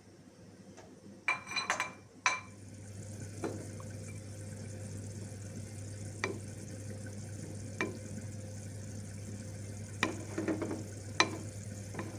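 Cooking at the stove: a quick run of metal clinks, then a steady low hum with a soft hiss from about two seconds in. Single sharp taps of a utensil against the pan or pot come every few seconds.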